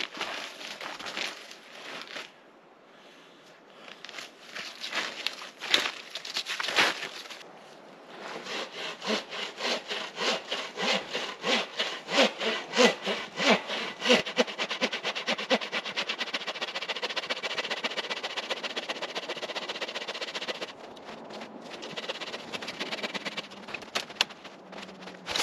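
Hand saw cutting through wood. A few scattered knocks and rustles come first, then steady back-and-forth strokes from about eight seconds in that speed up midway and stop a few seconds before the end.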